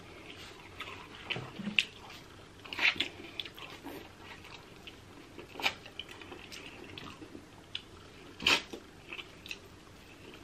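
Close-miked eating of crab: wet chewing and smacking with scattered sharp clicks, the loudest about three seconds in and again near eight and a half seconds.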